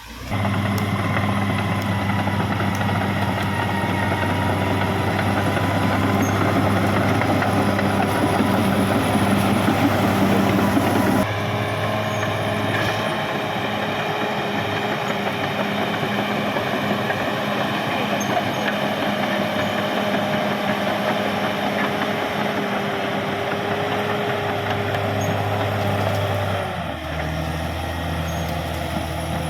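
Caterpillar D6R XL bulldozer's diesel engine running steadily at working speed. The engine note changes abruptly about a third of the way in and again near the end.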